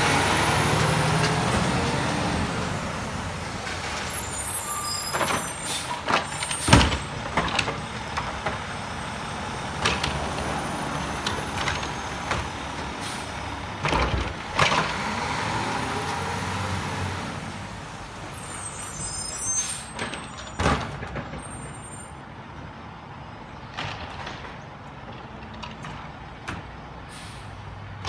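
Garbage truck running and moving off, its engine noise fading. Air brakes hiss twice, and a dozen sharp bangs and clunks ring out, the loudest about seven seconds in.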